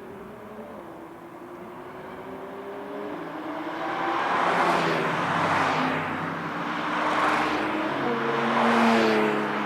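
Porsche 992 GT3 RS's naturally aspirated flat-six through a very loud Brillsteel Edizioni Corsa aftermarket exhaust, driven on track. It grows louder from about four seconds in and swells up and eases back three times as it passes.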